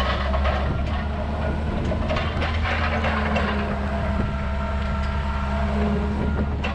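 Forklift engine running steadily as the forklift is driven, a constant low hum with a few scattered knocks and rattles.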